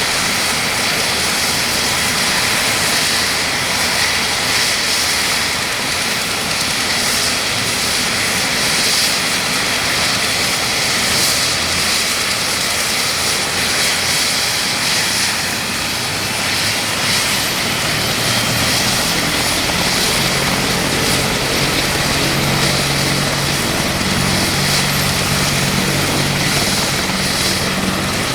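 UH-60M Black Hawk's twin turboshaft engines running with a steady high whine during startup. About eighteen seconds in, a low throb joins as the main rotor comes up to speed.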